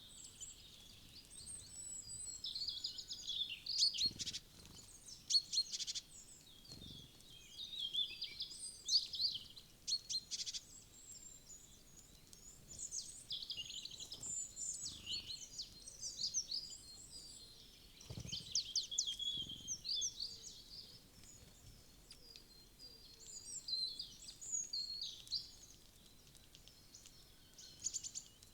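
Small woodland songbirds chirping and calling: many short, high chirps and trills that overlap in bursts, pausing briefly between them, with a few sharp ticks among them.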